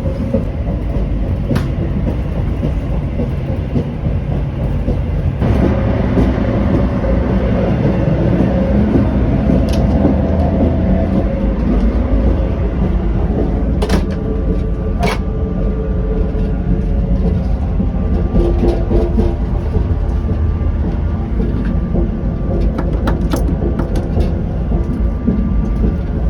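Afrosiyob high-speed train running at speed: a steady, loud low rumble, with a few sharp clicks, two of them about a second apart midway.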